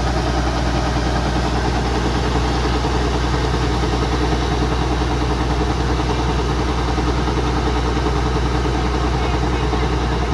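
Kubota DC-105X combine harvester's diesel engine running at a steady speed, without changes in pitch or loudness.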